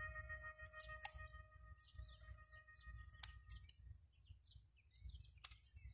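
Faint birdsong: many short, scattered chirps, with a few sharp clicks. A held musical note fades out over the first two seconds.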